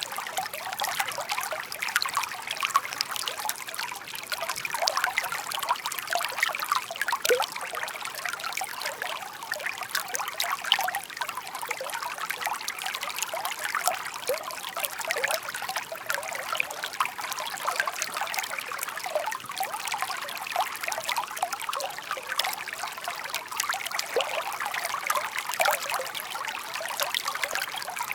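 Shallow park stream babbling and trickling steadily over stones, a continuous gurgle dotted with many small splashes and plinks.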